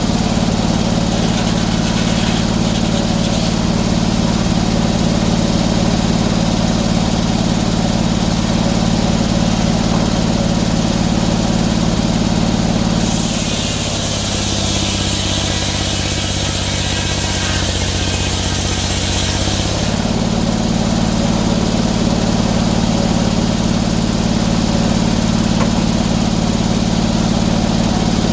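Sawmill engine running steadily. For about seven seconds in the middle it pulls down slightly in pitch as a high hissing cutting noise rises, the saw working through a cut in oak, then it settles back.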